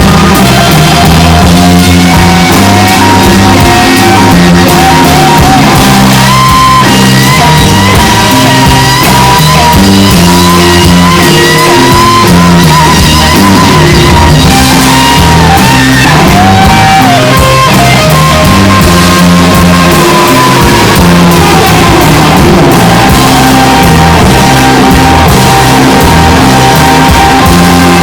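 Loud live rock band playing an instrumental passage, with guitar, bass and drums. A lead line of long held notes bends and slides over a repeating chord and bass pattern.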